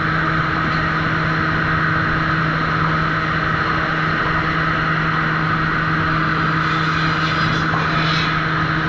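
Sawmill machinery running with a steady hum. A faint hiss comes in near the end.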